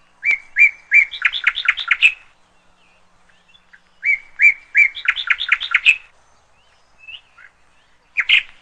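A bird singing: a phrase of three even whistled notes followed by a quick run of notes, given twice, with a third, busier phrase starting near the end.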